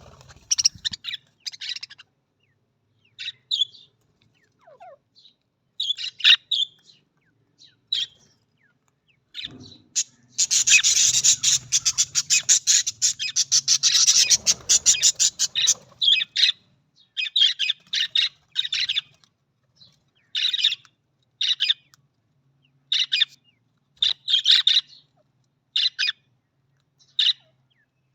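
Budgerigars chirping in short bursts, with a long run of fast, dense chattering warble about ten seconds in that lasts around six seconds.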